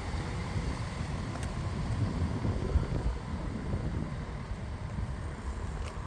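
Class 170 Turbostar diesel multiple unit pulling in, a steady low diesel rumble with no sharp events.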